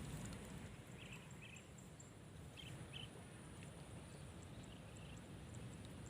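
Faint outdoor ambience: a few short high bird chirps, some in quick pairs, over a steady low rumble.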